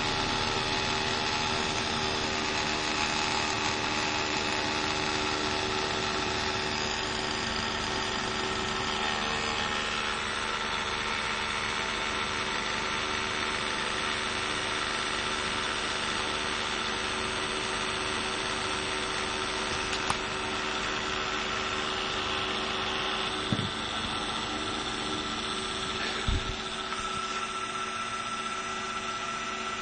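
Bosch 120 A car alternator, diodes removed and its stator driven by an RC brushless ESC, spinning steadily as a motor with a steady whine of several fixed tones. A few short clicks come about two-thirds of the way through.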